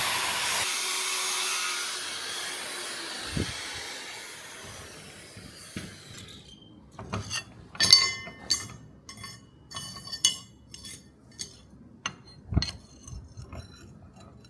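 A workshop machine's steady whir fades away over about six seconds. Then comes a run of short, light metallic clinks and taps, the loudest about eight seconds in.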